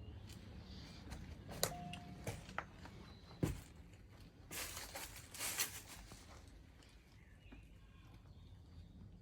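Outdoor ambience: a few sharp clicks and a thump, then about a second and a half of rustling that may be footsteps, with faint bird calls in the background.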